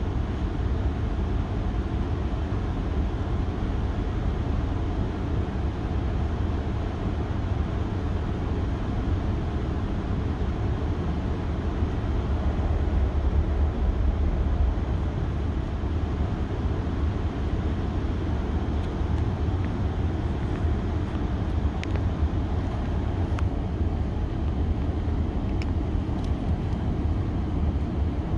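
Metrolink commuter train running between stations, heard from aboard: a steady low rumble of the ride, swelling slightly about halfway through, with a few faint clicks.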